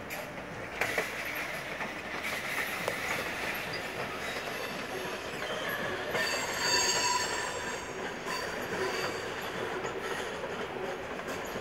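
Train running on station tracks: a steady rolling noise with a few sharp clicks of wheels over rail joints early on, and a high wheel squeal of several pitches starting about six seconds in and lasting about a second and a half.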